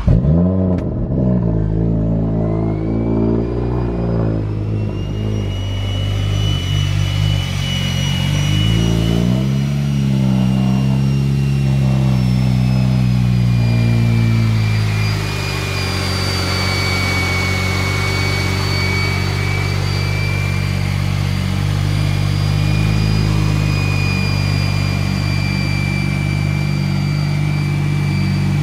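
A 2020 Toyota GR Supra's turbocharged 3.0-litre inline-six, fitted with a 6062 ball-bearing turbo and a titanium exhaust, fires on a cold start and runs at a loud fast idle. The idle wanders and then settles to a lower, steadier note about fifteen seconds in, with a thin high whine running above the exhaust note.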